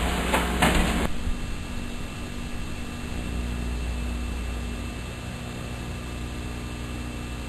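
Two quick knocks, then an abrupt switch about a second in to a steady mechanical hum with a faint high whine, like a fan or air-conditioning unit running.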